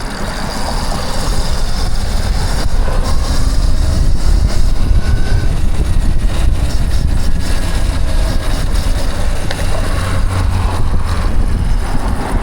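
Heavy wind buffeting and rumble on the microphone while riding, building over the first couple of seconds and holding steady.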